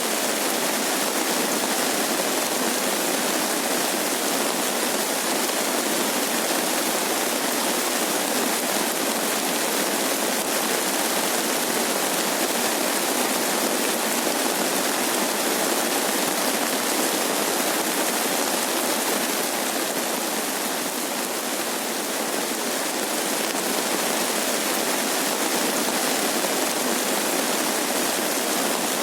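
Steady rain falling on rice paddies: an even, unbroken hiss of water.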